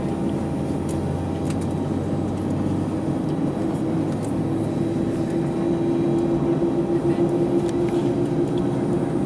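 Airliner cabin noise while taxiing onto the runway: the jet engines run with a steady hum and rushing air, growing a little louder past the middle.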